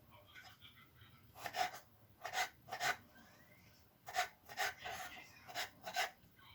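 About a dozen short scraping or rubbing strokes at uneven intervals, several in quick pairs, over faint room noise.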